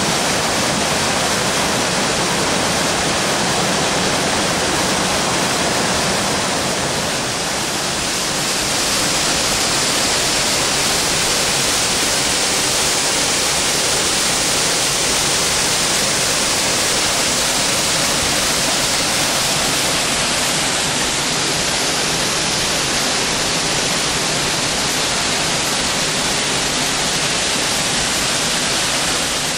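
Waterfall pouring over rocks: a loud, steady rush of falling water that turns a little brighter and hissier about eight seconds in.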